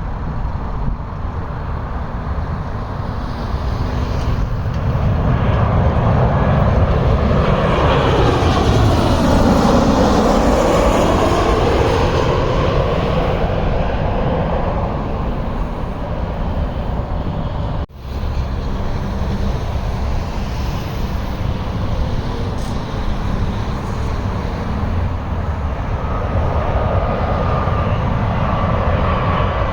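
Jet airliner on landing approach passing overhead: the engine sound swells to a peak about eight to ten seconds in with a sweeping whoosh as it goes by, then eases off over a steady low rumble. The sound cuts out for an instant near eighteen seconds, and a high engine whine from the next approaching aircraft builds near the end.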